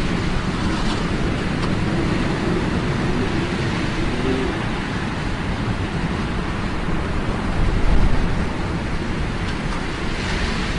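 A steady rushing noise, heaviest in the low end, with a swell about eight seconds in.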